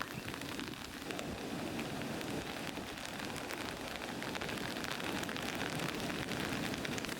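Heavy rain falling: a steady hiss thick with the ticks of individual drops, growing slightly louder about a second in.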